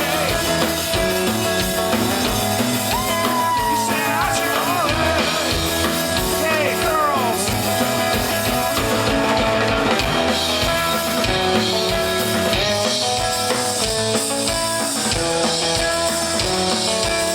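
Live rock band playing an instrumental passage, drum kit driving a steady beat under pitched instruments, with a few sliding notes a few seconds in.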